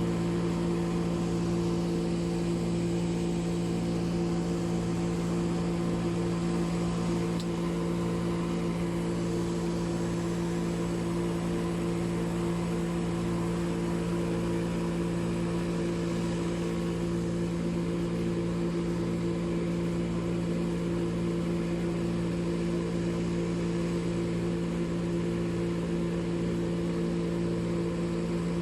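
An engine running at a constant speed: a steady low hum with a strong, even pitch that does not change.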